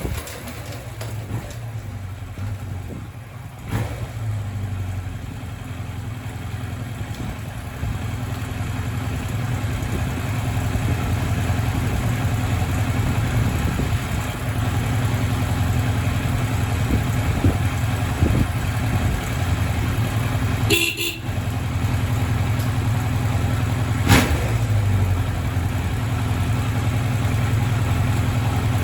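Kawasaki Z1000R2's air-cooled inline-four engine idling steadily. Its horn sounds once, briefly, about 21 seconds in, and there is a sharp click about 24 seconds in.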